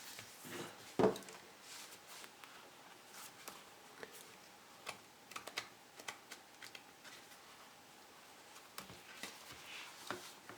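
Faint, scattered light clicks and taps of small objects being handled, with one louder knock about a second in.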